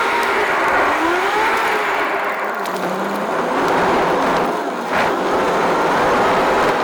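Car driving along, with steady road and engine noise and an engine note that rises and falls.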